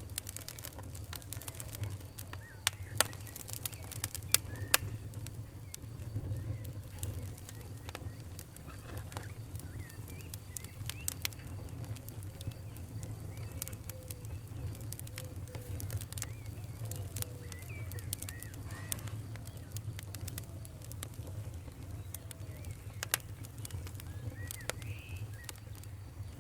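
Wood fire crackling, with irregular sharp pops over a low steady rumble of the flames, and faint short chirping sounds scattered through.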